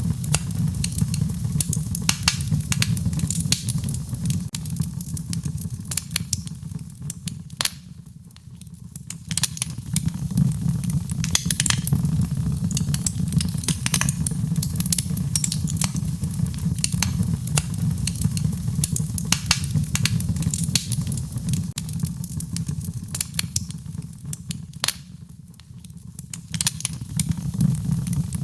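Fireplace wood fire crackling, with frequent sharp pops and snaps over a steady low rumble of flames. The sound dips down briefly twice.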